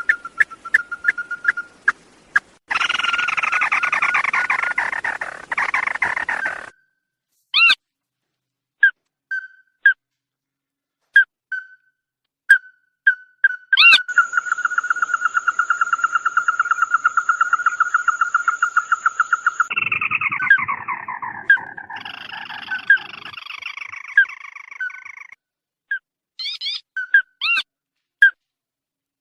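Recorded calls of the bird known in Vietnamese as 'chim mắt đỏ' (red-eyed bird): single short whistled notes repeated at intervals, with two long runs of rapid calls, one near the start and a longer one past the middle that falls in pitch toward its end. The sections start and stop abruptly, as in a spliced call recording.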